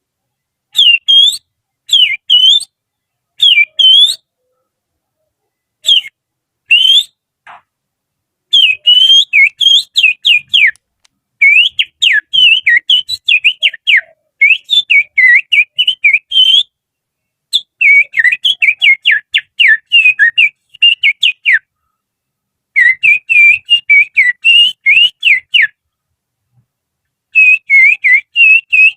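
Finger whistling with the little finger, imitating the song of an oriental magpie-robin: quick, high, warbling notes in short phrases separated by pauses. From about eight seconds in, the phrases become longer, rapid strings of chirps.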